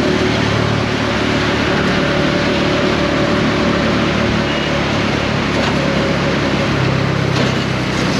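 Bajaj Dominar 400's single-cylinder engine running steadily while riding, heard under a steady rush of wind noise. The engine note shifts a little and dips briefly near the end.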